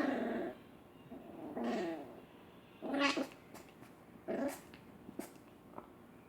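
A household pet growling in about four short bursts, roughly a second and a half apart, during rough play between a small dog and a cat.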